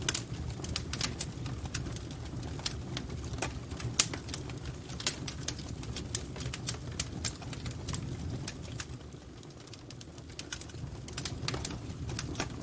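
Wood fire in a fireplace crackling: irregular sharp pops and snaps, one louder pop about four seconds in, over a steady low rumble of the flames, with the popping thinning out for a moment near the two-thirds point.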